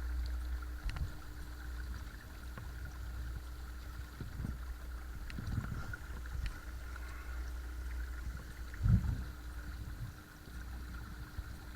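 Watersnake T24 12-volt electric trolling motor running steadily on speed setting 2, a steady hum, with water sloshing against the kayak hull. A low knock comes about nine seconds in.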